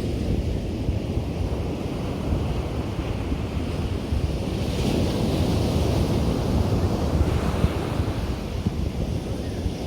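Ocean waves breaking and washing up a beach, with a low rumble of surf and wind buffeting the microphone; a wave's hiss swells about halfway through.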